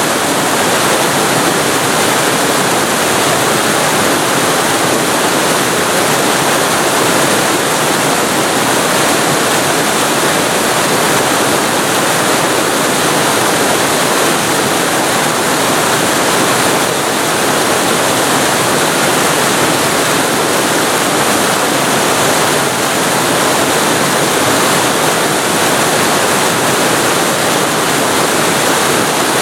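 Waterfall heard from very close: a loud, steady rush of falling water with no change or distinct events.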